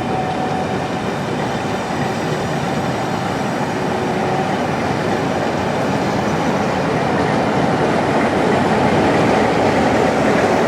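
Passenger train passing: coaches rolling by on the rails in a steady, loud rumble, with faint steady tones early on and growing slightly louder toward the end.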